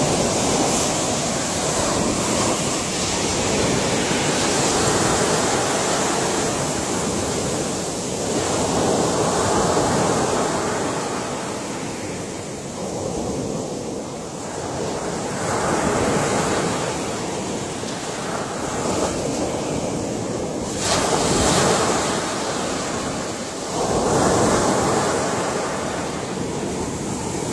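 Ocean waves breaking on a shore, the surf swelling and easing every few seconds, with one sharper crash about three-quarters of the way through.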